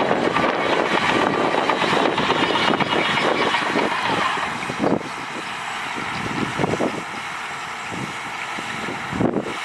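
Heavy earthmoving machinery's diesel engine running, louder for the first four seconds or so and then dropping back.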